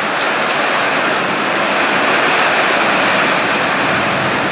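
Torrential storm rain driven by strong wind: a loud, steady rush of noise with no let-up.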